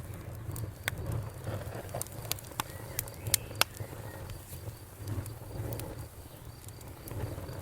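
Wood fire in a fireplace crackling: irregular sharp snaps and pops over a low, steady rumble of the flames, with two louder pops a little past the middle.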